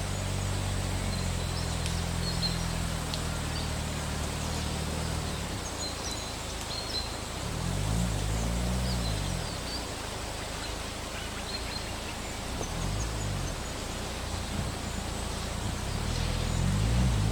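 A low engine hum that holds steady for about five seconds, then rises and falls in pitch three times, over a steady outdoor hiss with small birds chirping.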